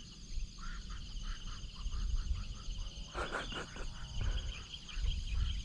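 Insects, likely crickets, trilling in a steady pulsing chorus, with short calls scattered through it and a louder brief call about three seconds in.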